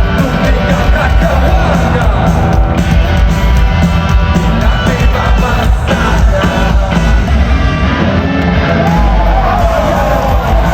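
Live rock band playing loudly with singing, the crowd yelling and singing along.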